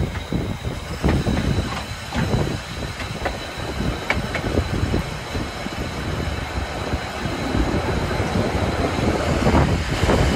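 Steam-hauled train running along the track: a steady rumble with uneven clicks and knocks from the wheels and carriages, and a faint thin steady high tone.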